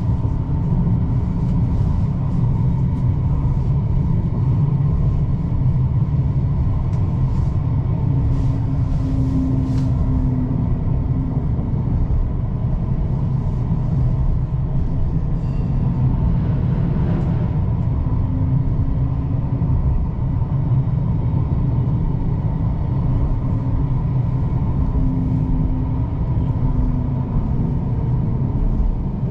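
Tram running, heard from inside the car: a steady, loud rumble of wheels on rail with a faint motor hum that rises and falls every few seconds.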